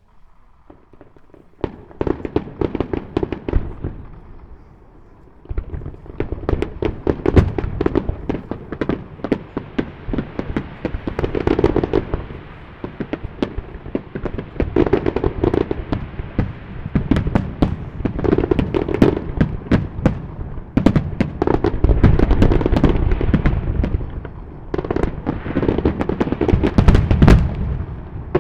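Aerial fireworks bursting in a rapid, dense barrage of booms and crackling bangs, starting about two seconds in, easing briefly, then building again and continuing thickly.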